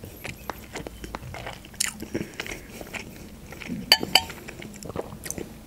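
Close-miked mouth sounds of a person chewing a mouthful of kyufta meatball soup, with many small wet clicks. Two sharper clicks about four seconds in, as the metal spoon goes back into the glass bowl.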